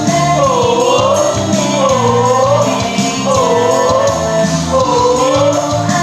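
Japanese idol pop song played loud over a sound system, with singing. A bouncing melodic phrase repeats every second and a half or so over a steady beat and bass.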